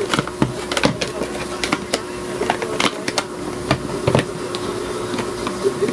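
Irregular light clicks and knocks of a multimeter and its test leads being handled on a bench, over a steady hum.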